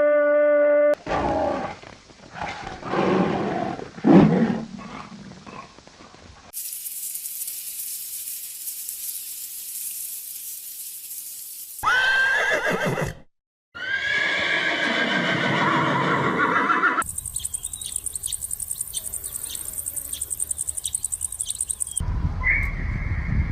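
A run of short farm-animal sound clips cut one into the next, the clearest being a horse whinnying twice around the middle, each call high and falling in pitch.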